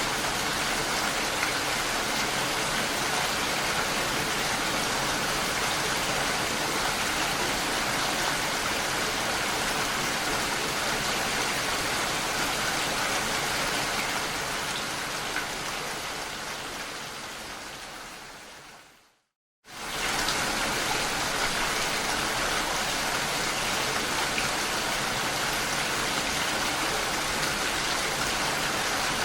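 Steady, dense rain. About two-thirds of the way through it fades out over a few seconds to a brief moment of silence, then comes back at full level all at once.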